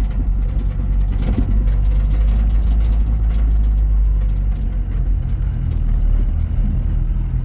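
Motor vehicle engine running steadily, a continuous low drone with a few light knocks and rattles over it.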